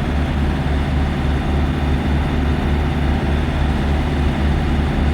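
Heavy truck's diesel engine running steadily, a constant low drone.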